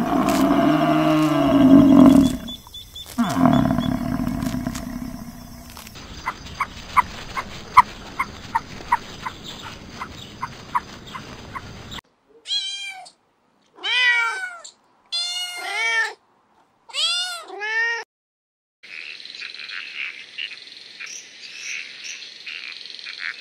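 Cats meowing in a series of short clips cut together. The clearest stretch, in the middle, holds about five separate meows, each rising and then falling in pitch.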